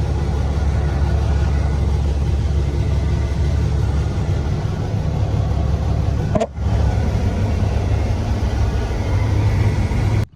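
Peterbilt 379 semi truck's Caterpillar diesel engine running through 8-inch straight pipes, a steady deep drone. It breaks off briefly about six and a half seconds in and cuts off suddenly near the end.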